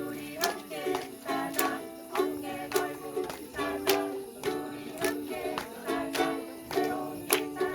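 Live acoustic song accompaniment: a stringed instrument strummed in a steady rhythm, about two strokes a second.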